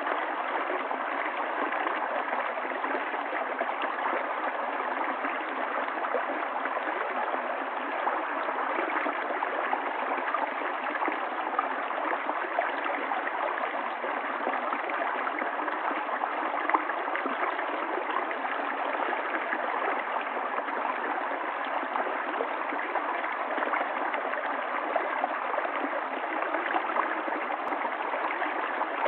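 Stream water running and gurgling steadily, with no lulls or surges, its sound lacking deep rumble and high hiss.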